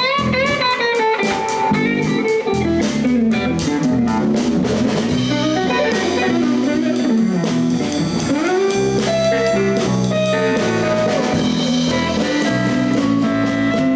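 Live blues band playing an instrumental passage: a guitar-led lead line with notes that bend up and down in pitch, over bass and a drum kit.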